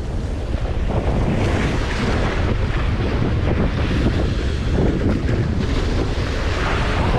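Strong wind buffeting the microphone, a loud rumbling gusty roar, with waves washing underneath.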